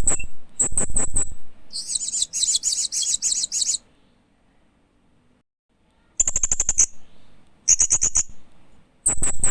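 Hanging parrot (Loriculus) calling in quick clusters of high, sharp chirps, with a longer rapid chattering run about two seconds in. The calls stop for about two seconds, then the short chirp clusters resume.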